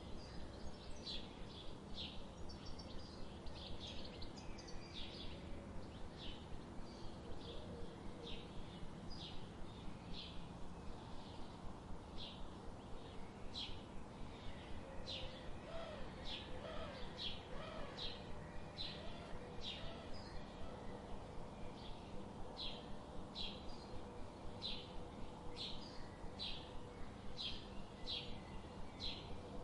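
Birds chirping: short high chirps repeated about twice a second over a steady low background rumble, with a few softer, lower warbled calls about halfway through.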